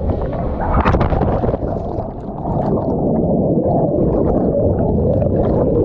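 Muffled rushing and gurgling of river water heard through a camera held underwater, with a sudden burst about a second in as it goes under.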